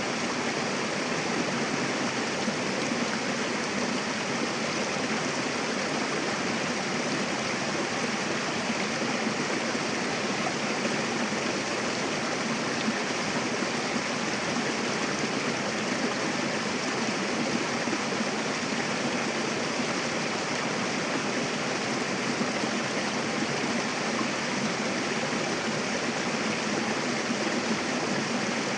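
Mountain river rushing over rocks: a steady, even wash of flowing water with no break or change.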